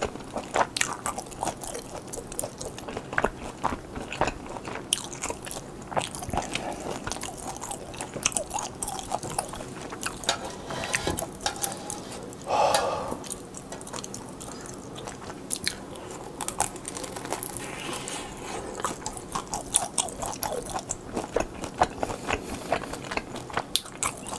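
Close-up eating sounds of a pan-fried hotteok dumpling: chewing and biting with many short, wet mouth clicks throughout.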